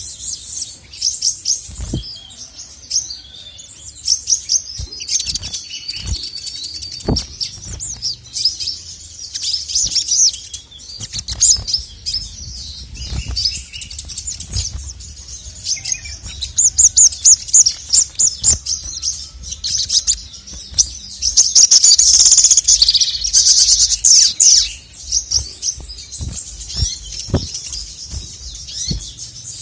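A male sogon (sogok ontong, a little spiderhunter) singing in long runs of rapid, high chirping notes. The song gets louder and denser about halfway through. Scattered soft knocks sound under it.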